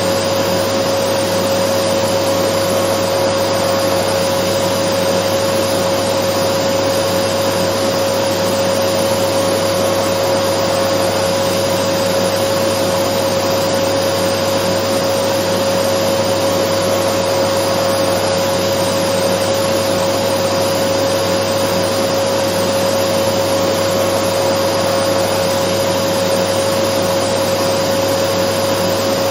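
Dyson vacuum cleaner running continuously and evenly: a steady rush of air with a constant whine over it.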